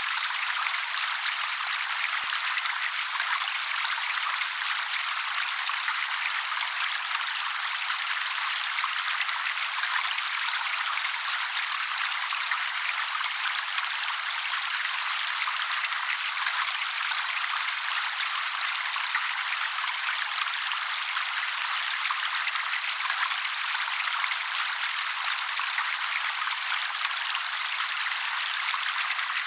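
Trickling water, a steady even splashing hiss with no low rumble, running unchanged throughout, with no birdsong over it.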